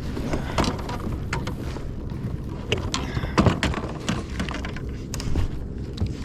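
Scattered knocks and clicks of gear and hull aboard a fishing kayak, over a steady low rumble.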